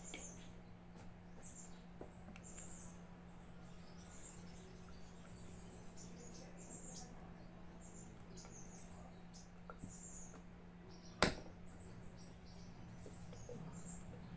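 Faint, repeated high chirps of small birds, with a steady low hum underneath. A single sharp click, the loudest sound, about eleven seconds in.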